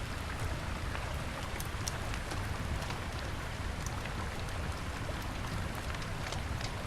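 Wood fire crackling with scattered sharp pops and ticks over the steady rush of a river.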